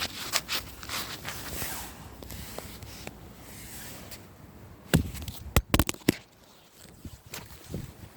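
Footsteps in winter, coming irregularly: a run of light steps in the first two seconds, a cluster of louder steps about five to six seconds in, then a quieter stretch.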